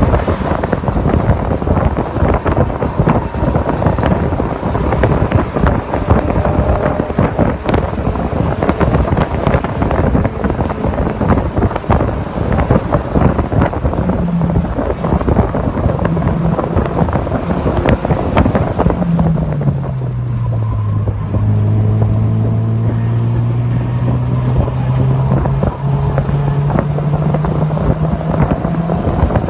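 Heavy wind buffeting on the microphone over a car at speed; about two-thirds of the way through, a Mazda MX-5 NC's four-cylinder engine note comes through, drops in pitch as the car slows, then climbs slowly as it accelerates again.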